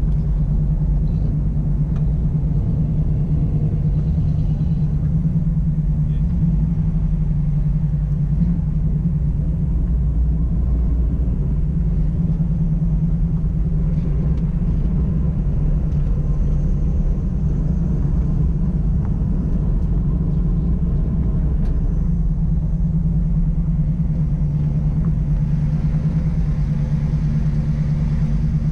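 Car engine running steadily at a cruise, with a continuous low rumble.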